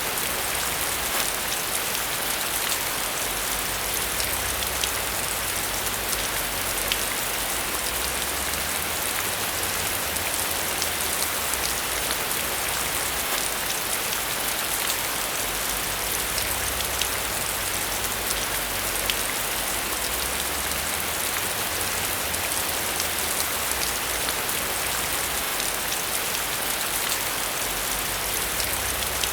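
Steady heavy rain falling on a surface, a dense even hiss full of fine drop patter, with a low rumble underneath.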